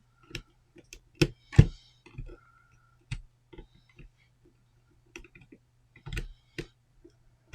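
Irregular small clicks and light knocks of sensor wires being fed through a plastic enclosure top and tightened into screw terminals, with the loudest knocks between one and two seconds in. A faint steady low hum runs underneath.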